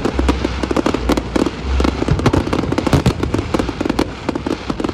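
Aerial fireworks going off in quick succession: many overlapping bangs and crackles over a low rumble.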